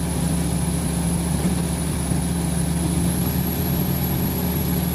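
Heavy diesel truck engine running steadily at a constant pitch, with no revving.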